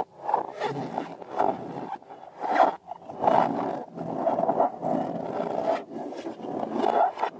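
Rubber balloon squealing and squeaking as it is squeezed and rubbed, in uneven swells of a second or more.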